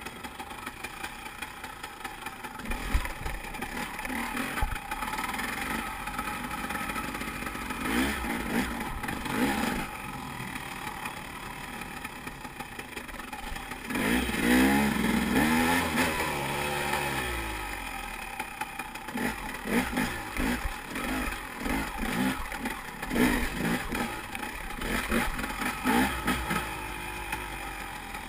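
2008 KTM 300 EXC's two-stroke single-cylinder engine being blipped and revved at low speed over trials obstacles, rising and falling with each throttle burst. A longer, louder rev comes about halfway through, and quick repeated blips follow toward the end.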